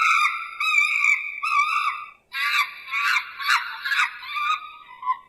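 Chimpanzee calling: long high-pitched cries for the first two seconds, then a quicker run of harsher, choppy screams that stops abruptly near the end.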